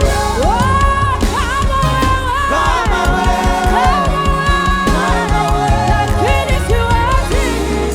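Live gospel praise and worship music: singers holding and sliding between long sung notes over a full band with a steady low pulse.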